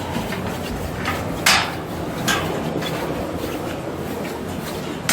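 A few sharp knocks and rubbing sounds, the loudest two about a second apart, over a steady rushing background noise.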